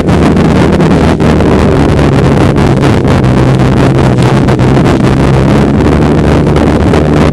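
Snowmobile engine running at a steady pitch, loud and close, with heavy wind noise on the microphone.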